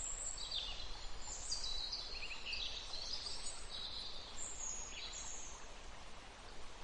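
Forest birds chirping and singing, many short high calls and trills overlapping, over a faint steady background.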